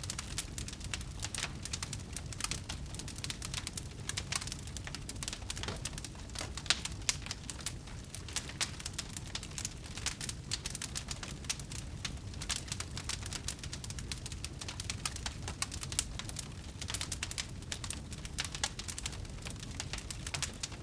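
Wood fire burning in a fireplace: dense, irregular crackling with a few louder pops over a steady low rumble of flames.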